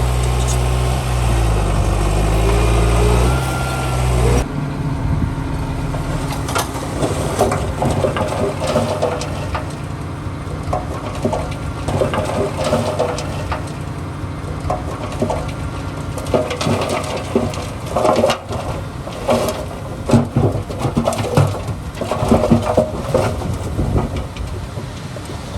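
A heavy diesel engine of earthmoving machinery idling steadily, its pitch shifting briefly, until the sound cuts off abruptly about four seconds in. It gives way to a rougher stretch of machinery at work, full of repeated clanks and knocks.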